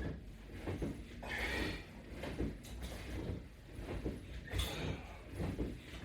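A person working through crunch repetitions: breaths and the creak and rub of the strap and bench gear, one repetition about every three seconds.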